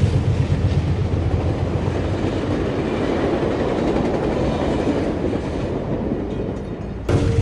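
Train running along the track: a steady rumble of wheels and rail noise. Near the end it cuts abruptly to a louder, deeper rumble.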